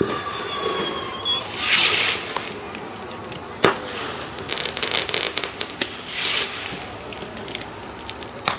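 Garden fireworks going off: a whistle at the start, two hissing whooshes, a sharp bang partway through and another near the end, with a spell of rapid crackling in between.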